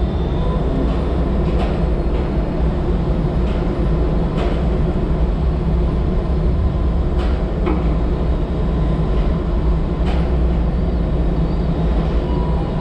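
Logging truck on the move: a steady low diesel and road rumble with a few sharp rattles and knocks.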